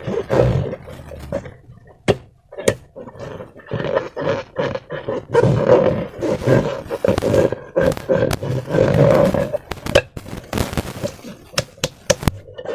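Slime being worked by hand with rubber balloons: irregular wet squelching and rubbery squeaking, broken by sharp clicks and pops, several in quick succession near the end.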